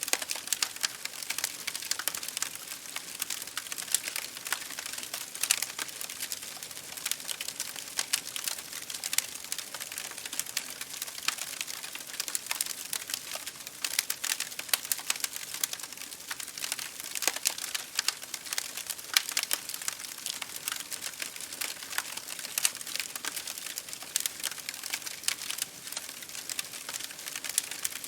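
Wood fire crackling in a fireplace: many sharp, irregular pops and snaps over a steady hiss, mixed with rain against a window pane.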